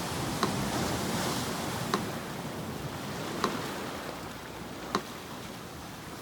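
Sea surf washing steadily, swelling over the first two seconds and then easing, with a metronome ticking slowly over it: four sharp ticks, one every second and a half.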